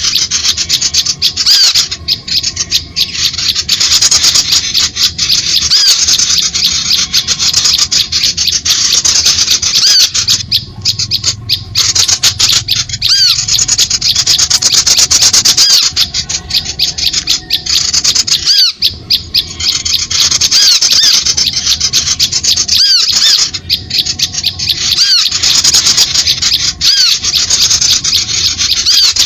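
Loud, continuous chattering of small birds: a dense run of rapid, high chips and ticks with short chirps laced through it, as in a bird-trapping lure call (suara pikat) for drawing small birds in.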